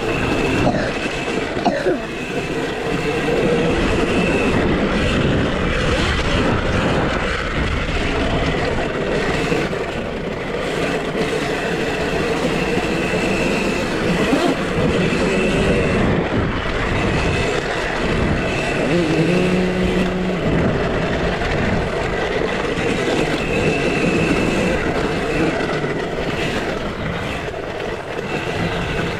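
2023 KTM SX-E5 electric mini motocross bike being ridden hard over a dirt track: a steady loud clattering and rushing of chain, chassis and tyres, with a thin high electric-motor whine that comes and goes.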